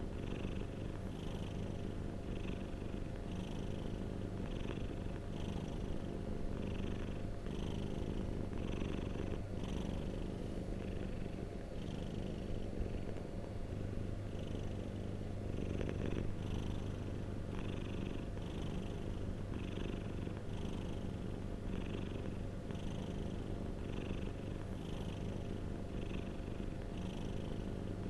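Domestic cat purring continuously, a low rumble with a regular rise and fall about once a second.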